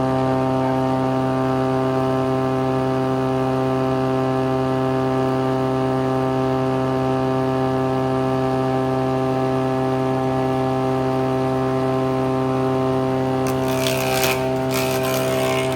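A motor-driven machine running at a steady speed with an even hum. Near the end, two brief bursts of scraping hiss sound over it.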